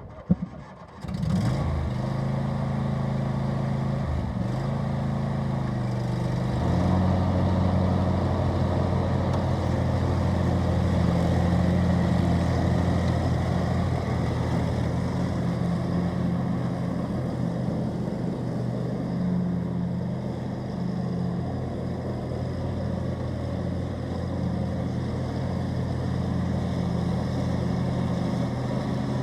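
John Deere D130 lawn tractor's engine starting about a second in after a short click, then running steadily. About five seconds later it is throttled up to a higher steady speed.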